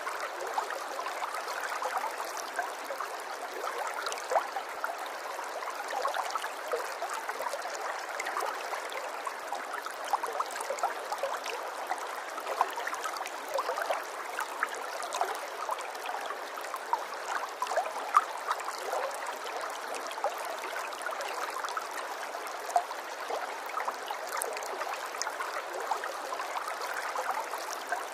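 A small stream flowing: a steady rush of water with many small splashes and trickles.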